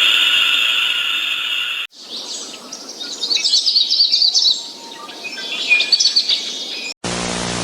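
A small bird chirping in quick, high trills for about five seconds. Before it comes the fading tail of a steady held call, and near the end a cut brings in a steady low horn-like drone.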